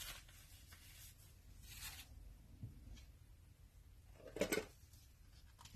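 Quiet room with faint handling sounds and one brief scrape or rustle about four and a half seconds in.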